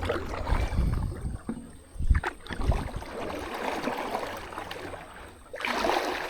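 Kayak paddle strokes splashing and swishing through river water in repeated swells, with a couple of short low knocks about two seconds in.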